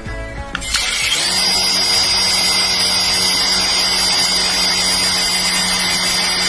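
Battery-powered toy airplane's small electric motor starting up under a second in, its pitch rising briefly, then running with a steady high whine and whir. A bit of music is heard before it starts.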